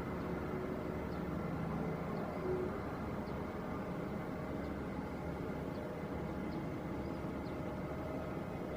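Airliner engines running steadily, a constant rushing noise with several steady humming tones underneath.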